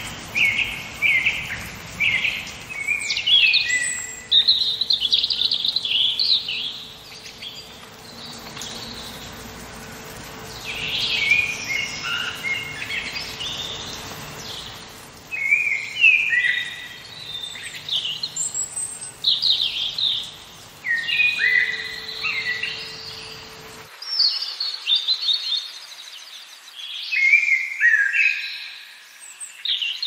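Several wild birds singing and chirping, short whistled and trilled phrases overlapping in bursts. A low background noise bed cuts off abruptly about three-quarters of the way through.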